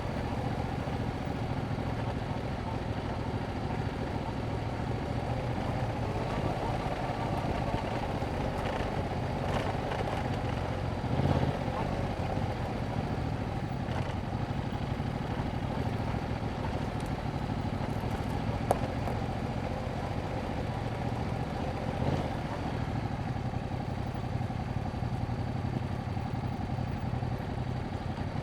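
Yamaha MT-07's 689 cc parallel-twin engine running through its stock exhaust, holding a steady engine note with no hard revving. There is a short louder moment about eleven seconds in.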